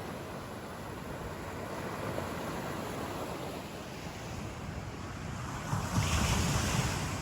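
Steady rushing of ocean surf, swelling louder for about a second near the end as a wave breaks.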